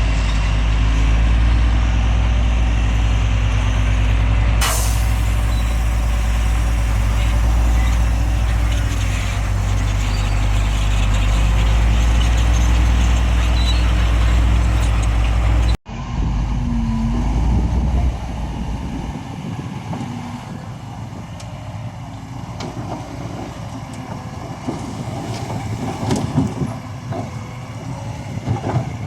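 Heavy diesel engine of earthmoving equipment running steadily and loud, with a brief sharp hiss about five seconds in. After an abrupt cut about halfway through, the engine sound is quieter, fading further with scattered clanks and knocks.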